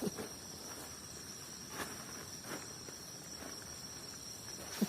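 Night insects trilling steadily on one high pitch, with a couple of faint clicks or knocks about two and two and a half seconds in.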